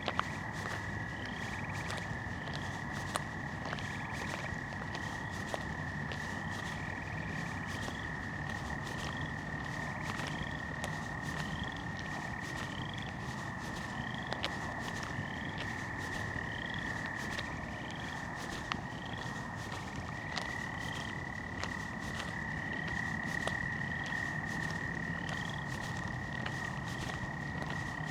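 Frog chorus at night: a steady, unbroken trill with short rising peeps repeating above it about once a second.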